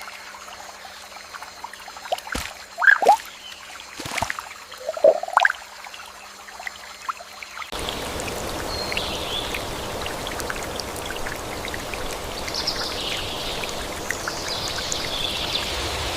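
Water dripping and plopping into water, a few loud plops with a rising pitch in the first half. About eight seconds in it cuts abruptly to steady flowing water with a few faint high chirps over it.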